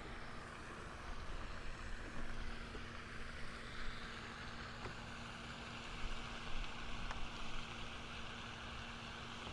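Steady outdoor background noise: an even hiss over a low rumble, with a faint steady hum under it and a few faint ticks.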